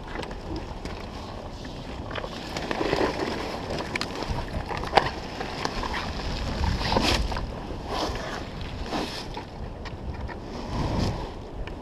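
Wind rumbling on the microphone, with scattered knocks, clicks and rustles; no clear engine note.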